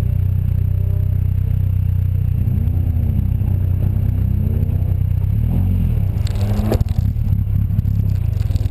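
Seven-style open sports car engine idling, heard from the open cockpit, with two blips of the throttle in which the pitch rises and falls. A brief hissing burst comes about six seconds in.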